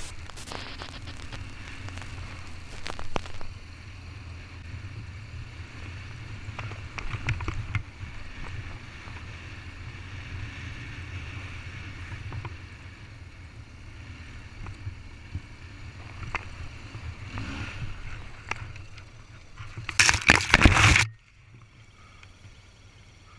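2007 BMW R1200GS boxer-twin engine running under way in sand, heard on a bike-mounted action camera with rushing wind noise and a few loud jolts. The sound cuts off abruptly about 21 seconds in, leaving it much quieter.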